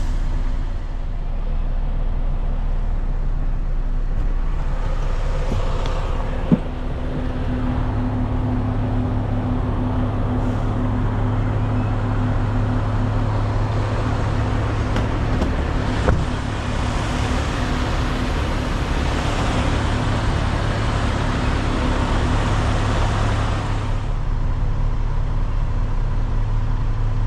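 Semi truck's diesel engine running steadily, heard from inside the cab as a low hum. There is a single sharp knock about six and a half seconds in, and a louder hiss from about 17 to 24 seconds.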